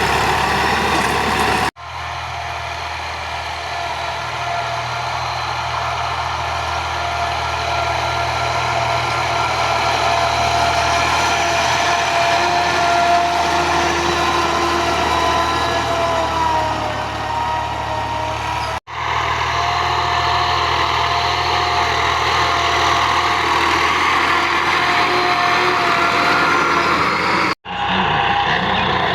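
Tractor engine running steadily with a low drone. The sound breaks off abruptly three times at cuts between takes.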